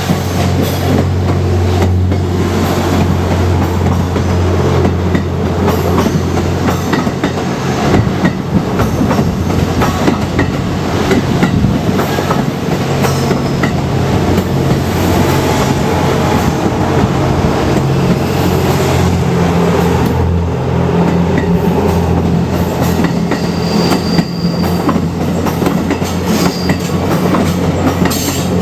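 The Twilight Express Mizukaze, a Kiha 87 series diesel-hybrid excursion train, passing close by. Its engines hum steadily and low, and its wheels clack over the rail joints.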